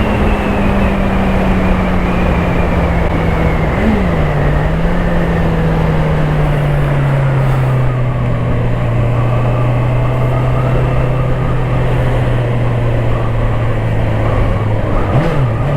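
Honda CBR650R's inline four-cylinder engine running under way, its note slowly falling, with a quick flick in revs about four seconds in and again near the end, over a steady rushing noise.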